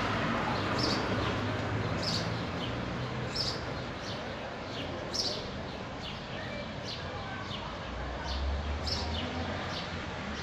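A bird chirping over and over, short high chirps about once a second, over steady outdoor background noise.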